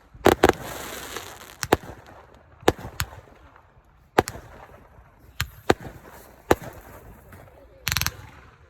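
Consumer fireworks going off: a string of sharp bangs at irregular intervals, some trailing a light crackle, with a quick rattle of reports near the end.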